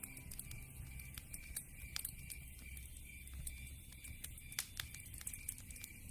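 Wood fire crackling, with irregular sharp pops from the burning logs over a low rumble of flames; the loudest pops come about two seconds in and again past the four-and-a-half-second mark.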